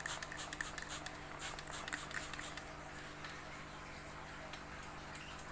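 Quick, irregular light pattering and splashing of water as a baby bird is bathed, busiest in the first half and tailing off after about two and a half seconds, over a faint steady hum.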